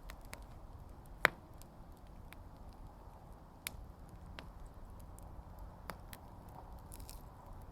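Wood fire in a firepit crackling: scattered sharp pops from the burning logs over a low, steady rumble of flame, with one much louder pop about a second in.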